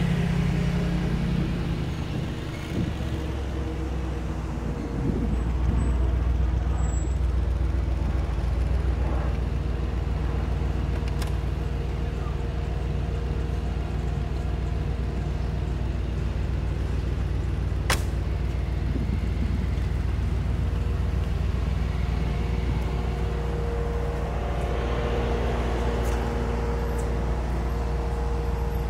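Mercedes-AMG G63's twin-turbo V8 running at idle, a steady low rumble. A single sharp click sounds about midway through.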